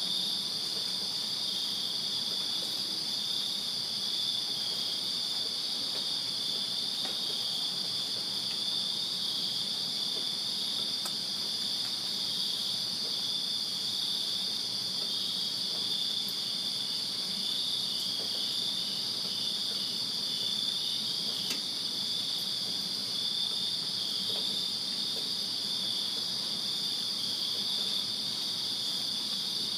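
Chorus of crickets chirping on a summer night: a steady high trill with a second, slightly lower pulsing chirp running under it.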